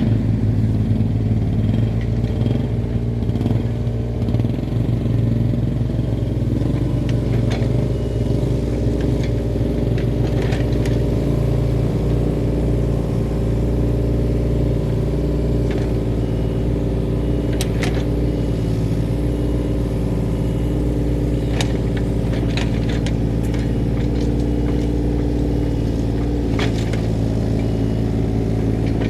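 Mini excavator's diesel engine running steadily, with a few short metallic clanks scattered through.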